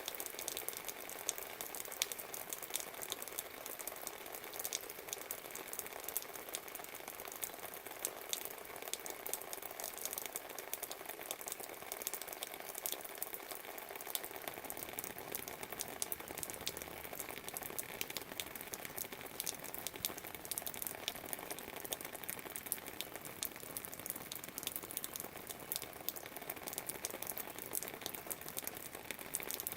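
Steady rain falling, a dense crackle of drops pattering on surfaces. A faint low rumble joins about halfway through.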